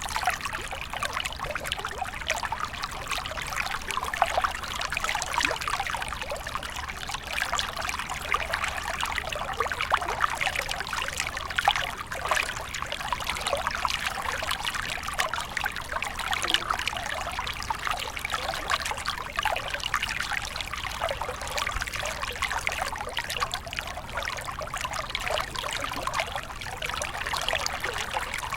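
Small stream of water flowing and trickling steadily over stones, a continuous babble of many small splashes.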